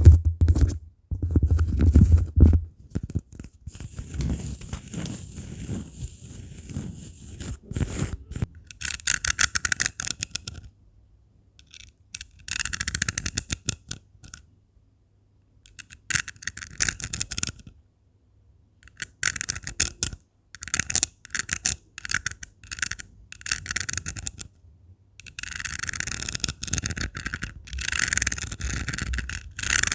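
Scratching over rhinestone gems in repeated bursts of about a second each, with short pauses between. In the first few seconds there are low knocks and then softer scraping on cork.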